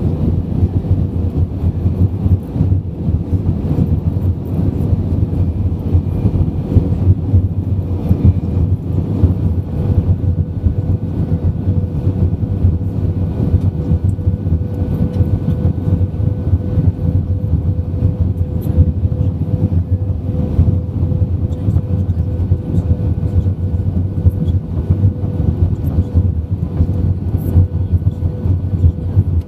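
Airbus A320-200 cabin noise: a steady, loud low rumble with a faint constant hum running through it.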